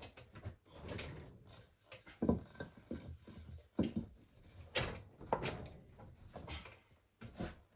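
Irregular knocks, scrapes and clatter of parts and tools being handled during work on a ride-on mower, a dozen or so separate sounds with no steady rhythm.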